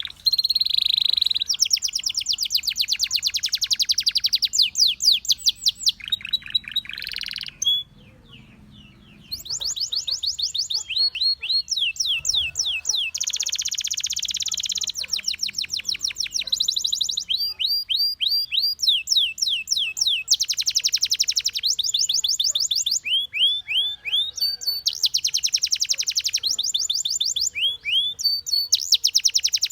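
Domestic canary singing: long, rapid trills of repeated high notes, changing from one phrase to the next every few seconds, with a short pause about eight seconds in.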